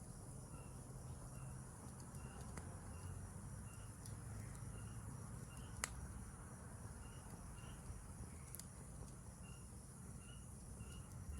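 Forest insects calling: a steady high trill, with short chirps repeating about twice a second. A bonfire crackles faintly underneath, giving a few sharp pops, the loudest about six seconds in.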